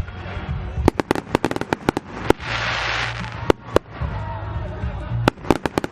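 Aerial fireworks going off: rapid clusters of sharp cracks and pops about a second in and again near the end, with single bangs in between. A dense hissing burst comes a little past the middle.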